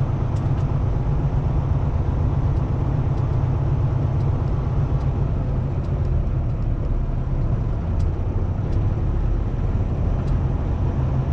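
Kenworth T680 semi truck's diesel engine idling with a steady, even low hum, plus a few faint clicks.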